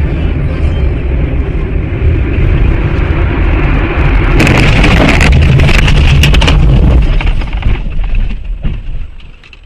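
Steady low rumble of a moving car, then about four seconds in a car crash: a burst of crunching, clattering impacts lasting a couple of seconds before the noise dies away near the end.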